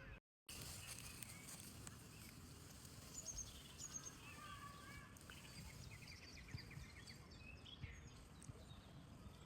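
Faint outdoor birdsong: small birds giving short high chirps and, in the middle, a quick rattling trill, over a low steady background rumble. The sound drops out completely for a moment just after the start.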